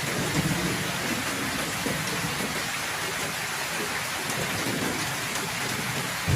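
Heavy rain falling steadily, with low thunder rumbling underneath, swelling about half a second in.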